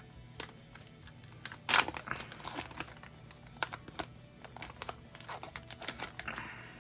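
Foil wrapper of a Pokémon booster pack crinkling and tearing open: a run of sharp crackles, with one louder rip a little under two seconds in.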